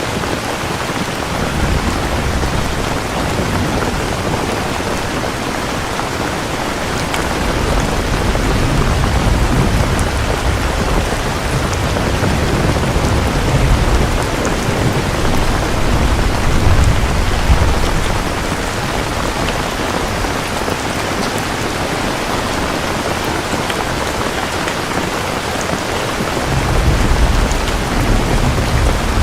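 Steady rain with thunder rumbling low and rolling in long swells, strongest through the middle of the stretch and again near the end.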